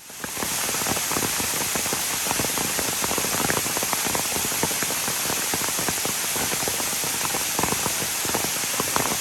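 Steady rain falling: a constant rushing hiss dense with the patter of countless individual drops.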